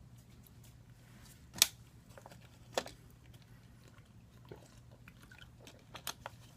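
Two sharp clicks about a second apart, the first the loudest, then a few fainter ticks near the end, over a low steady hum: small hard parts being handled on a repair bench.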